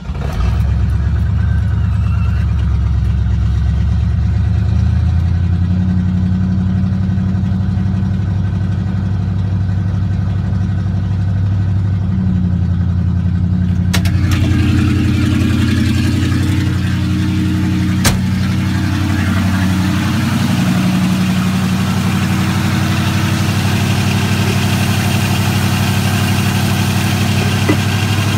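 Ford 302 V8 firing on a cold start after two months sitting, then running loud at a fast idle through an exhaust with no muffler, only a flex pipe; the idle is held by hand because the choke isn't set right. The idle speed shifts a few times, the sound turns brighter and more hissy about halfway through, and there is one sharp click about two-thirds of the way in.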